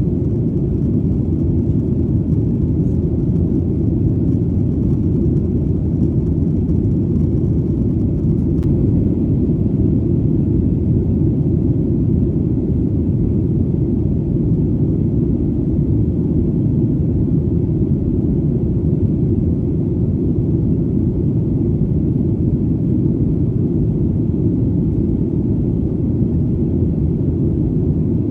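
Airplane in flight: a steady, deep rumble with no change in pitch or level.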